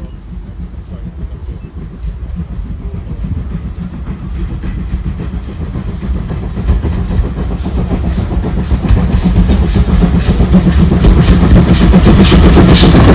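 Train running on jointed rail, the wheels clicking over the rail joints. It grows steadily louder and the clicks come quicker, as the train gathers speed or draws nearer.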